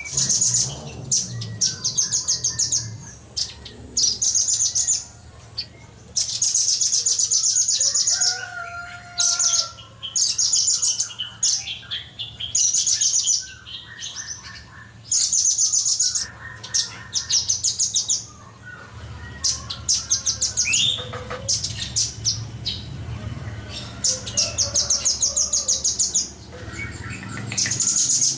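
Velvet-fronted nuthatch singing fast, sharp, high-pitched trills in repeated bursts of one to two seconds, with short pauses between them.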